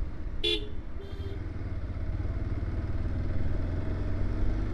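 Bajaj Pulsar 150 motorcycle running along the road, a steady low rumble, with a vehicle horn tooting briefly about half a second in and a fainter toot just after a second.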